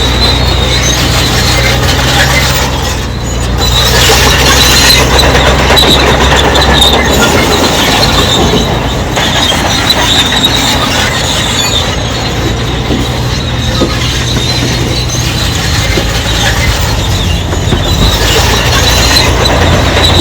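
Crawler bulldozer working, its diesel engine running steadily under load while the steel tracks squeal and clank. The engine note shifts about seven seconds in.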